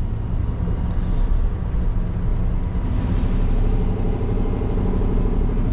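Scania R620's 16-litre V8 diesel running, heard inside the truck cab as a steady low rumble with road noise; about halfway through, the engine note and the higher hiss both grow louder.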